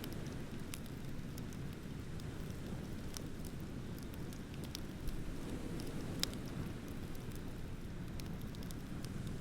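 Beach bonfire crackling, with scattered sharp pops; the loudest two come about five and six seconds in. A steady low rumble of ocean surf runs underneath.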